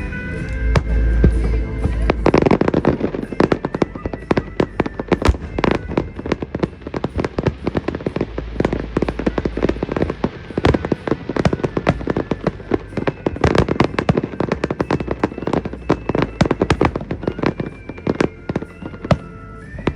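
Fireworks going off in rapid, overlapping succession: a dense run of bangs and crackles that thickens into heavy volleys about two seconds in and again past the middle. Music plays underneath.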